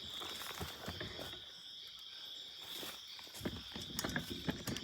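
Steady high-pitched insect chorus of the rainforest, with irregular rustling and crackling of movement in dry leaf litter that gets busier in the second half.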